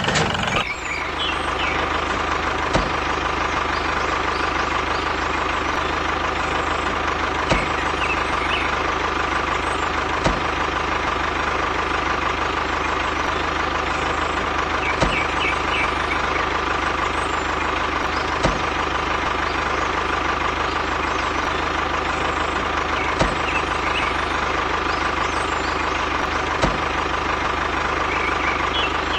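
A motor running steadily with an even hum, and a faint tick every few seconds.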